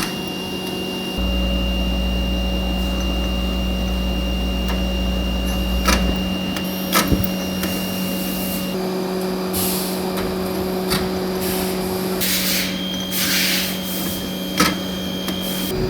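Factory machinery running with a steady hum and whine. A low rumble drops away a few seconds in, a few sharp clicks follow, and there are short bursts of hissing air near the end.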